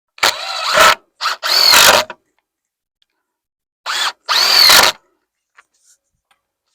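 Power drill run in short bursts on wood framing, the motor's pitch rising and falling with the trigger: two bursts in the first two seconds, then two more about four seconds in.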